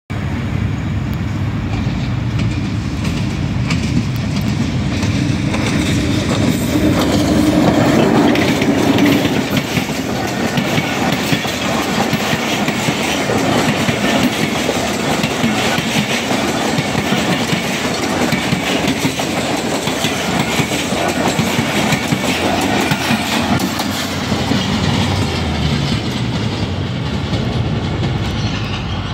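Passenger train passing at speed behind a PHA-20 diesel-electric locomotive. It is loudest about eight seconds in as the locomotive goes by. Then comes a long run of coaches with their wheels clattering over the track, easing a little near the end as the train draws away.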